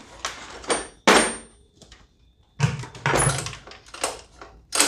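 Predator 212 single-cylinder engine being pull-started with the choke on: two yanks of the recoil starter, each turning the engine over briefly, about a second and a half apart, and near the end it catches and starts running.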